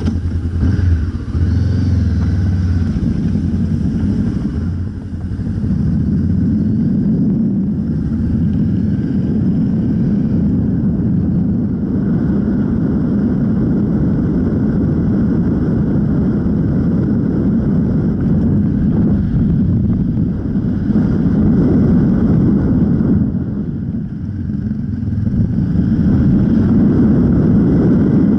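Honda CB500X's parallel-twin engine running as the motorcycle is ridden along the road. The sound dips briefly twice, about five seconds in and again around twenty-four seconds in.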